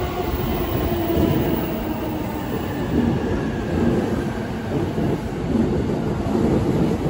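JR East E259 series Narita Express electric train running along the platform: steady rumble of wheels on rails that swells and eases about once a second as the cars go by, with a faint falling whine at first.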